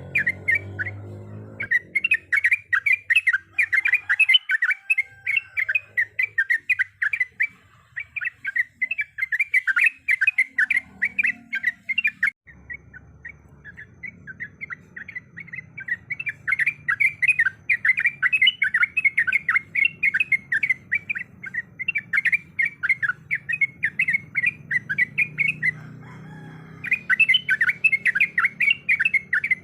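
Yellow-vented bulbul (trucukan) singing a long, rapid chattering song of quick repeated notes, broken by a few short pauses.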